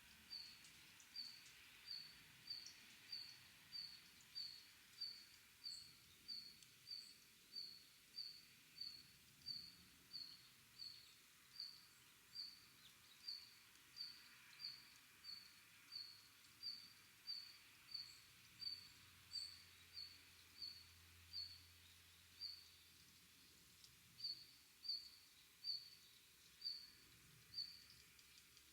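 A small bird repeating one short, high call about one and a half times a second, with a brief pause about 23 seconds in, over faint background hiss.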